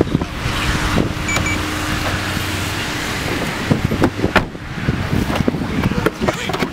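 A car driving, with engine hum and road and wind noise; a steady hum through the first few seconds gives way to rougher, uneven noise with a few clicks.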